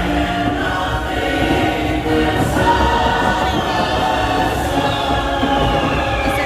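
Music with a choir of many voices singing together, steady throughout; a high tone glides downward near the end.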